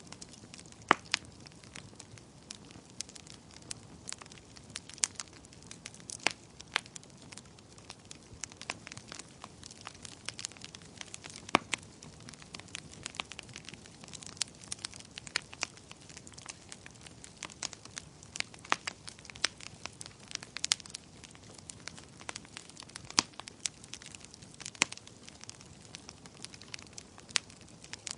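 Fire crackling, with irregular sharp pops and snaps scattered over a soft, steady hiss.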